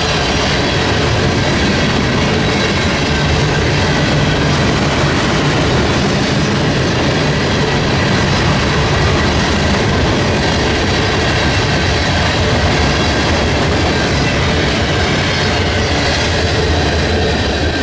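Freight train rolling past close by: a steady, loud rush of wheels on rail, with the clickety-clack of the cars' wheels.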